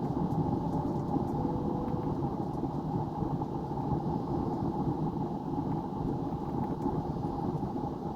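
Steady airliner cabin noise in flight: jet engines and air rushing past the fuselage, a low, even drone.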